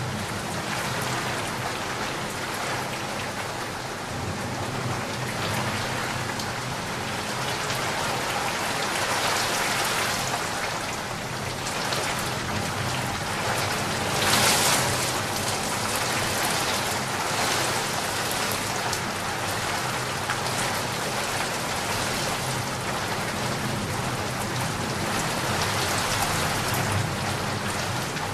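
Heavy rain pouring onto a flooded street, with floodwater rushing. About halfway through comes a short, louder surge of splashing water.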